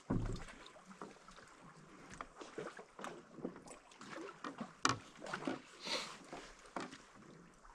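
Water splashing and slapping against a canoe paddled into wind-driven waves: irregular small splashes and drips, with one sharper hit about five seconds in.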